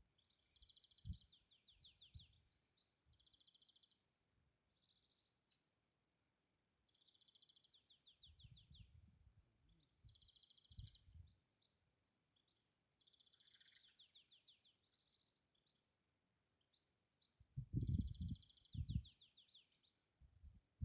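Faint songbird singing short trilled phrases of rapid notes, repeated every second or two. A few dull low thumps, the loudest a cluster near the end.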